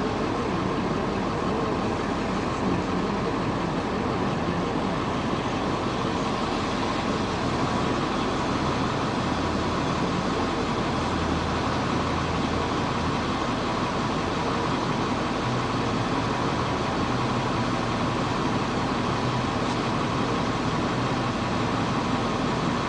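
Ford 7.3-litre Power Stroke turbo-diesel V8 cruising at part throttle: a steady drone from the engine and its 4-inch turbo-back exhaust, with the turbocharger's whistle mixed in.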